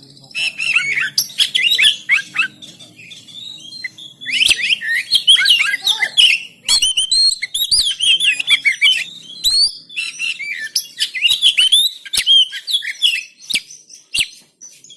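Oriental magpie-robin singing a fast, varied song of whistles and chattering notes in bursts with short pauses, with a few sharp clicks between phrases near the end.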